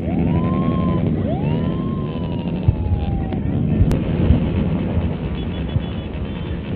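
Many motorcycles with open, straight-through exhausts running and revving together in a dense, loud din. Near the start, two siren whoops rise and then slowly fall over it, the second longer than the first.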